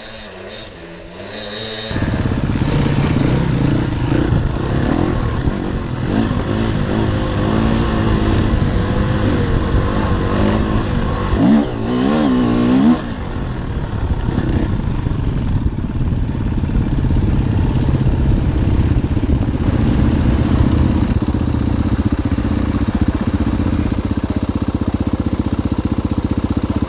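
Enduro dirt bike engine close to the microphone. It is soft for the first two seconds, then gets suddenly louder under throttle, with revs rising and falling several times near the middle before it settles into steady running.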